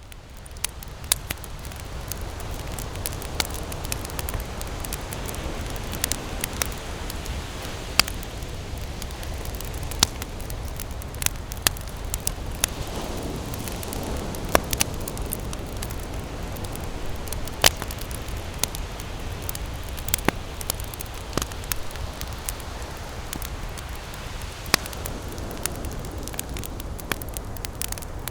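Wood campfire burning, with frequent sharp crackles and pops at irregular intervals over a steady low rumble. It fades in over the first couple of seconds.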